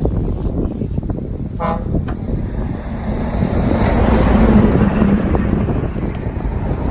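Car driving over a bumpy dirt track: a steady low rumble with rattling, the engine note swelling louder about four to five seconds in. A short toot sounds about a second and a half in.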